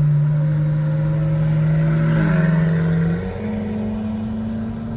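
Car engine droning at a steady pitch while driving. About three seconds in, the note steps up higher and the sound gets a little quieter.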